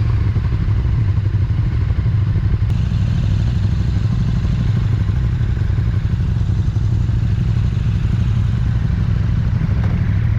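KTM 1290 Super Duke R's V-twin engine running at a steady pace, with no revving or gear changes.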